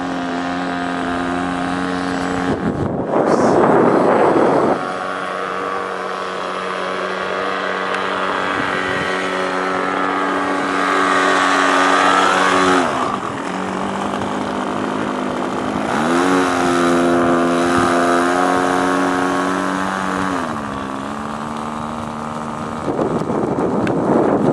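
Small electric motor and propeller of an E-flite Micro Beast RC biplane running with a steady whine, dropping in pitch as the throttle is eased about halfway through and twice more, then rising again. Gusts of wind rush over the microphone, loudest about three seconds in and again near the end.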